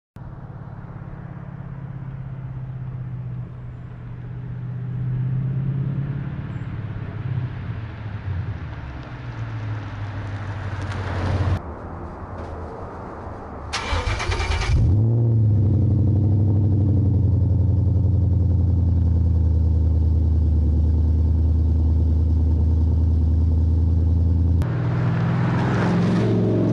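2014 Mustang GT's 5.0 L V8 through MAC axle-back mufflers, running with a deep, steady low exhaust note. After a short burst about two-thirds of the way in it settles into a louder idle, and near the end the pitch climbs as the engine is revved.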